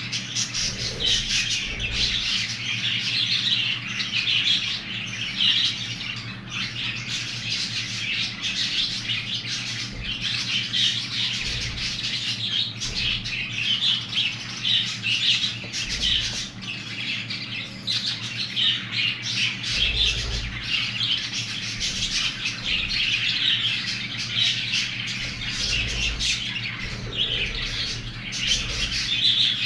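Budgerigar chicks calling continuously, a dense stream of short high chirps and squawks that never pauses, over a steady low hum.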